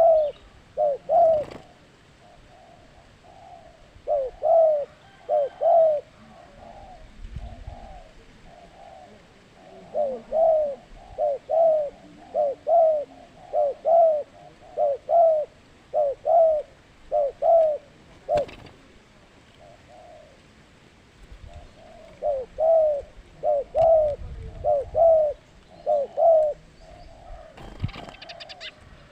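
Zebra dove (perkutut) cooing: phrases of short, repeated staccato notes with pauses between the phrases. A few sharp clicks are also heard.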